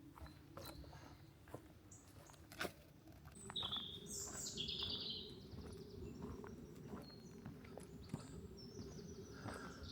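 Songbirds singing, with several high trilled phrases, one sweeping downward, from about three and a half seconds in. Faint footsteps on a forest trail fall roughly once a second.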